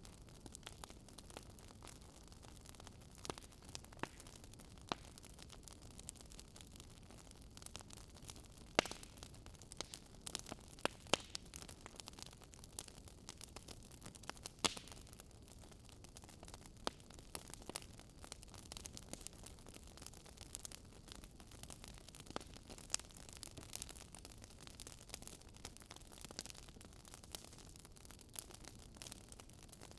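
Fireplace wood fire crackling: irregular sharp pops and snaps over a faint steady hiss, busiest in the middle.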